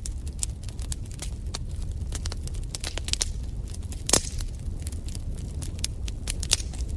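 Wood fire crackling in a fireplace: irregular sharp pops and snaps over a steady low rumble of the flames, with one louder pop about four seconds in.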